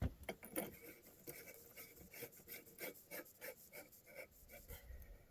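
Hands working on small parts at close range: a run of short, light scrapes and clicks, two or three a second.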